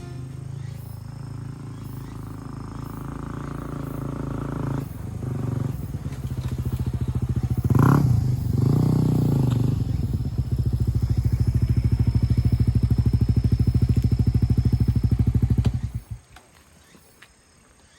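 Motorcycle engine running with an even, rapid beat, growing louder, with a brief rev about halfway through. It stops abruptly near the end.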